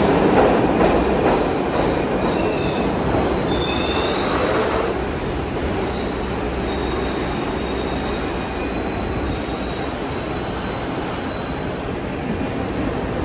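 Kawasaki R62 subway train running on the rails, a steady rumble that is loudest for the first five seconds and then eases. Thin, high wheel squeals come and go over it through most of the stretch.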